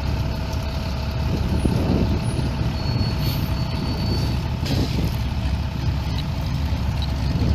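Steady low rumble of motor vehicles running nearby, with a faint steady whine above it.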